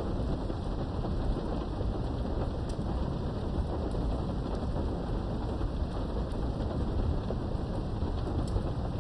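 Steady rain heard from behind a window, with a low rumble of thunder underneath and a few scattered drops ticking.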